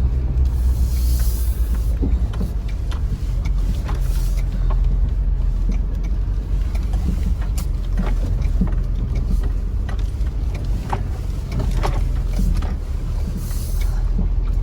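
Pickup truck driving slowly on a rough dirt road, heard from inside the cab: a steady low engine and road rumble with scattered clicks and rattles from gear shifting in the truck. A brief hiss rises about a second in and again near the end.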